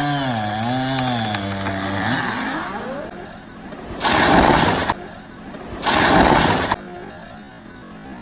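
Chainsaw engine running with a wavering pitch, then revving up about two seconds in. Two loud bursts of rasping noise follow, each about a second long, near four and six seconds in.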